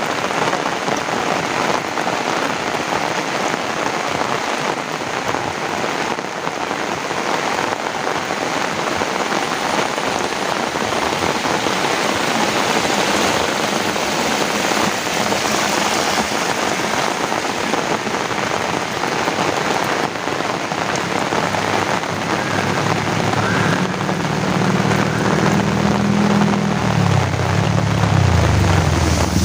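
Heavy rain pouring steadily onto surfaces. Over the last several seconds a motor vehicle's engine rumble grows louder as it approaches.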